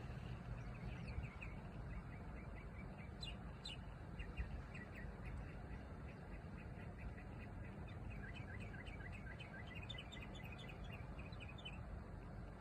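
A bird chirping in quick runs of short, high notes, several bursts with the longest near the end, over a steady low background rumble; a sharp click at the very end.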